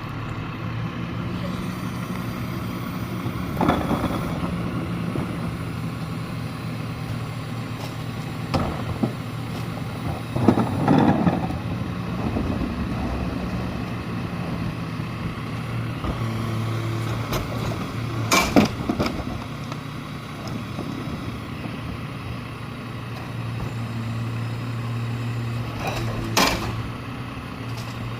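Mack rear-loader garbage truck's diesel engine running steadily, with several sharp bangs and clatters over it.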